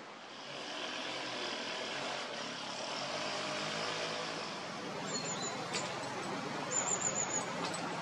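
A steady rushing noise that swells about half a second in and then holds. Over it, two quick runs of high, thin bird chirps come about five and about seven seconds in.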